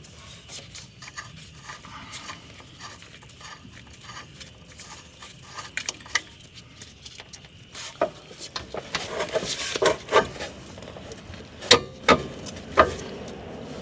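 Metal car parts being handled and fitted into place: scattered light clicks and rubbing, then a run of sharper metallic knocks and clinks in the last few seconds as a rear suspension bar is worked in.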